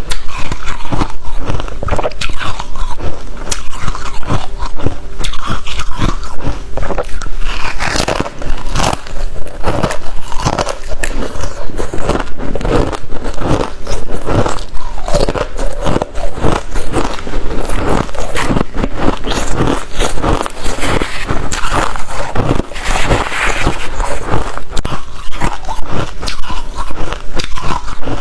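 Close-up crunching of freezer frost being bitten and chewed: rapid, loud, continuous crunches and crackles.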